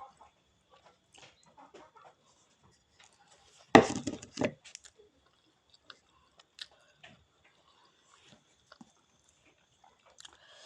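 Close-up eating sounds: faint chewing and small mouth clicks, with one short, loud burst of noise about four seconds in.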